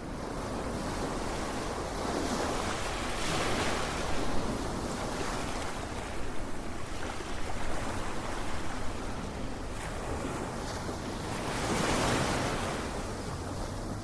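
Ocean surf: a steady wash of water with two waves swelling in, one about three seconds in and another near the end.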